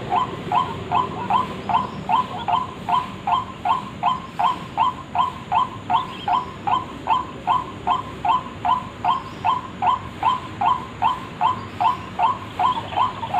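White-breasted waterhen (ruak-ruak) calling, a short note repeated evenly about two and a half times a second, as used for a bird-luring call.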